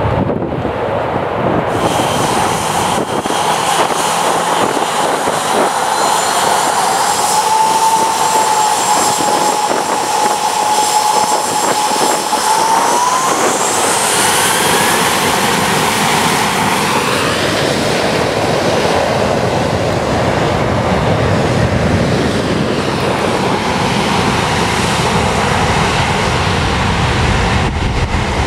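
Jet airliner engines running loud, a roar with a steady whine that climbs in pitch about halfway through as the engines spool up.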